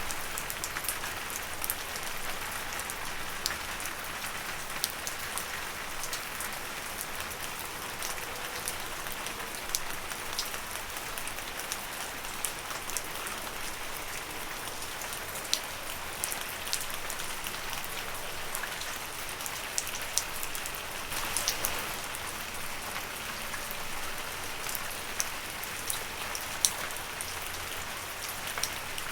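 Steady rain falling on leaves, a continuous patter with many distinct individual drop hits scattered throughout.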